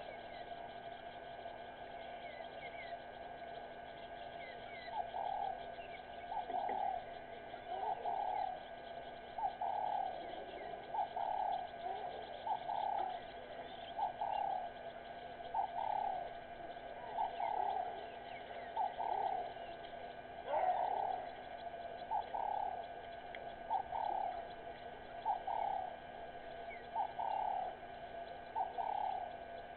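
A dove cooing over and over, about one coo every second and a half, starting a few seconds in and keeping on. Faint short chirps of other birds come and go above it, over a steady background tone.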